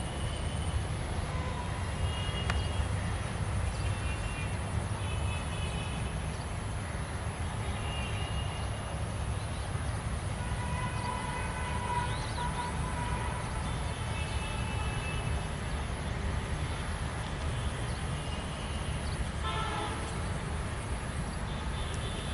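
Diesel-hauled passenger train rumbling steadily and low on the tracks as it pulls slowly away. Faint short higher tones come and go over the rumble.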